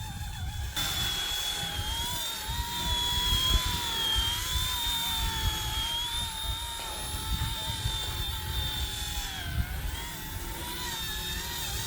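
Micro RC helicopter (RC ERA 186C Pro) whining from its electric motor and rotor, the pitch wavering up and down as the throttle changes; it gets louder about a second in. Gusty wind rumbles on the microphone underneath.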